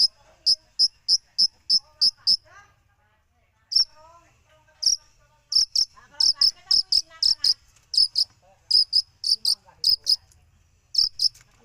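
Long-tailed shrike (cendet) singing a string of short, sharp, high chip notes in quick runs of about three a second, with pauses between runs and a soft warbling underneath.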